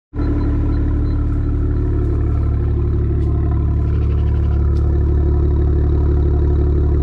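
BMW N54 twin-turbo inline-six idling steadily, a deep, even engine note that holds one pitch throughout.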